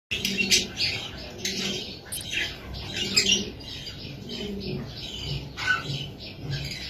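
Many birds chirping rapidly and without pause, with doves cooing low underneath through the first three seconds or so.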